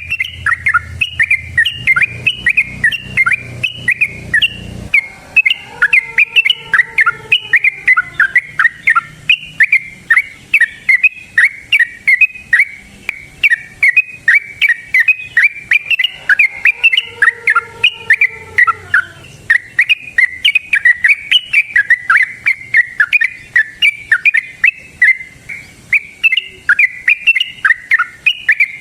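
Yellow-vented bulbul (trucukan) singing a long, unbroken run of rapid short chirping notes, about three to four a second, in the continuous 'ropel' style that keepers prize.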